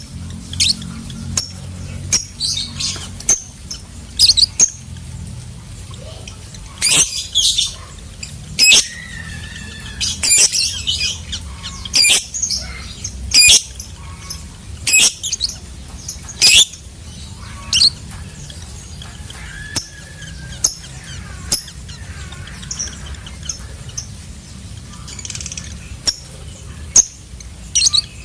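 Lovebird calling: sharp, high-pitched chirps and squawks repeated at irregular intervals, with a few longer chattering runs, over a steady low hum.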